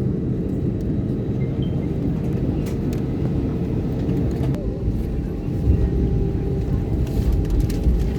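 Airliner cabin noise: a steady engine drone with low rumble, the rumble growing heavier in the second half.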